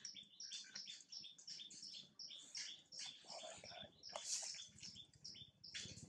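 Small birds chirping rapidly, several short high calls a second, with a faint low rumble coming in about halfway through.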